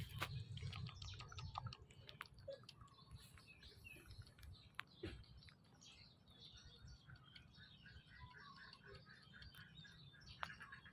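Faint chirping of small birds: many short, quick calls, with a fast run of repeated notes over the second half, over a low background rumble and a few sharp clicks.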